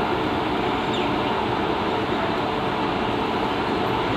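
Express train pulling out of the station behind a WAP-7 electric locomotive, its coaches rolling along the track with a steady rumble of wheels on rails.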